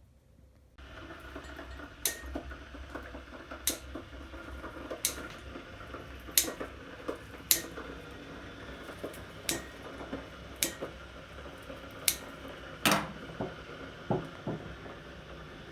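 A string of sharp, short clinks and taps of hard objects, roughly one every second or so, over a steady low hum.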